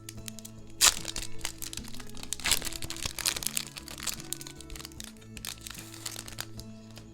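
Foil Pokémon booster pack wrappers crinkling and crackling as they are handled, with a sharp crack about a second in and a busy run of crackles a little later, over background music.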